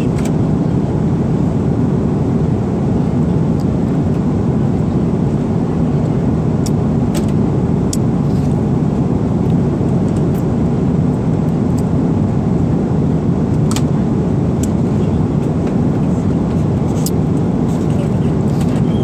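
Steady cabin noise of an airliner in flight, the engines and airflow making an even low rumble, with a few light clicks.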